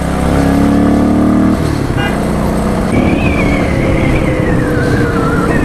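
1982 Honda XL185S's single-cylinder four-stroke engine running while the bike is ridden. The pitch climbs for about a second and a half, then drops sharply, and a thin whine slides steadily downward after that.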